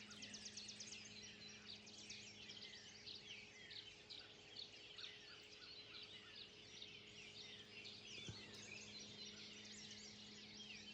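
Many birds chirping and singing at once, faint, with a rapid trill in the first second; a low steady hum runs underneath.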